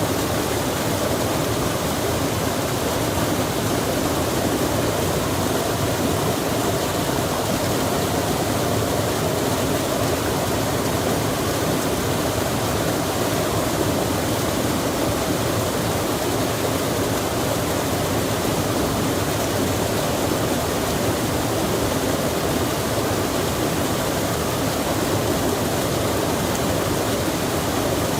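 Steady rushing of a stream mixed with falling rain.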